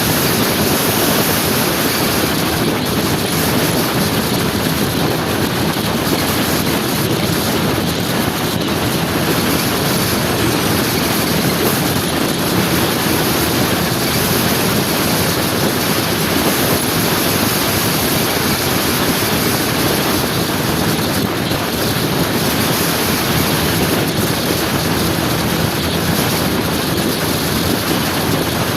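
Steady wind rush on the microphone while riding a motor scooter, with the engine running underneath.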